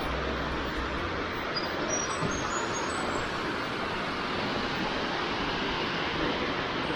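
Steady rushing roar of a waterfall, with a few short high bird notes about two seconds in.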